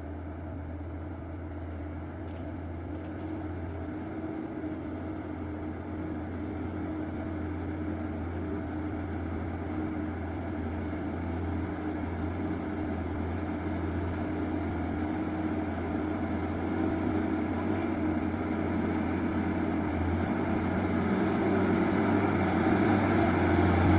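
Truck engine running with a steady low hum, growing steadily louder, most of all near the end.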